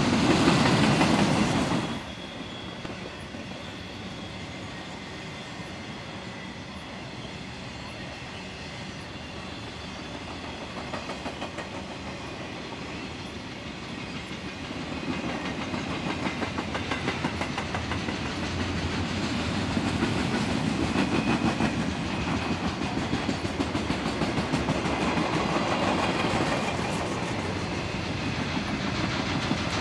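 Freight train's flatcars carrying highway trailers rolling past, steel wheels clicking over the rail joints in a quick, steady rhythm. The sound drops suddenly about two seconds in and grows louder again from about halfway.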